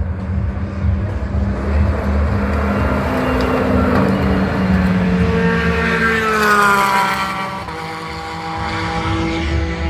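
GT race car passing at speed, its engine note building to the loudest point about six and a half seconds in, then dropping in pitch as it goes by. A steadier engine note carries on near the end.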